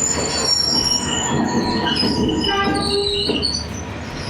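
Train rolling past at very close range on a narrow street track, a steady rumble of wheels on rail with high-pitched wheel squeal over it. The noise eases a little near the end.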